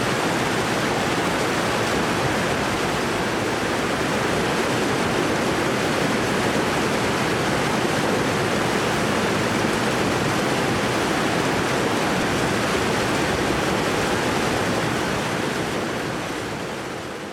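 Waterfall: a steady, dense rush of falling water that fades out near the end.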